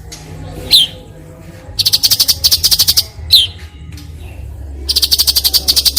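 Cucak cungko songbird singing its harsh 'besetan kasar' song. A sharp note falls steeply in pitch, then comes a rapid rattling trill of about a dozen dry pulses a second lasting over a second. A second falling note follows, and another rattle starts near the end.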